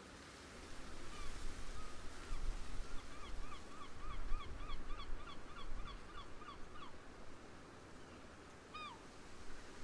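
A bird calls a rapid series of short, repeated honking notes, about three a second, the last dropping in pitch, then gives one more call near the end. Wind rumbles on the microphone underneath.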